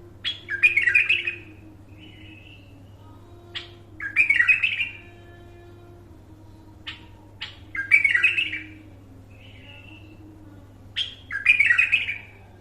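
Bulbul singing the same short phrase four times, about every four seconds: each phrase opens with a sharp note and runs into about a second of quick warbled notes, with a softer single note between some phrases. A steady low hum runs underneath.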